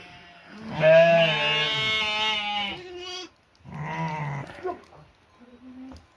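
A goat bleating twice: one long bleat, then a shorter one a second or so later.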